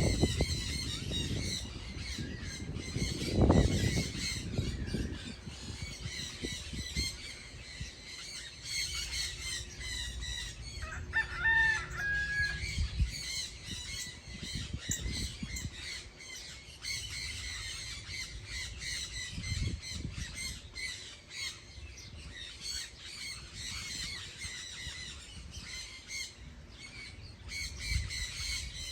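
A crowd of birds chattering and chirping continuously, many calls overlapping. About eleven seconds in, a rooster crows once. Low rumbles break in near the start and a few times later.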